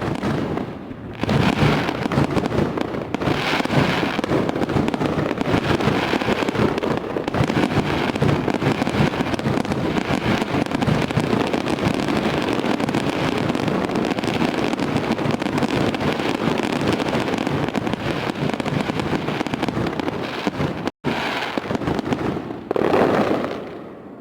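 Fireworks display: a dense, continuous barrage of crackling bursts and bangs. It cuts out for an instant near the end, swells once more, then fades.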